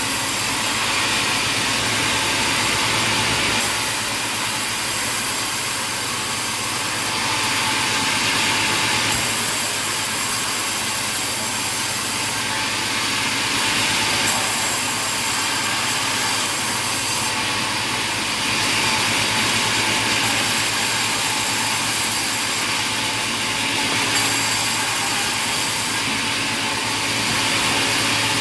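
Steady, loud machinery noise of sawmill equipment running, with a hissing high end. Its character shifts abruptly every few seconds.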